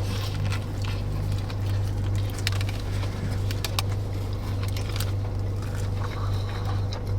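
Car engine idling, a steady low hum heard from inside the cabin, with scattered small clicks and rustles.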